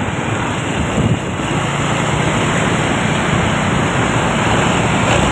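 Truck engine running under heavy wind and road noise on the microphone, with a steady low engine drone coming up about a second and a half in.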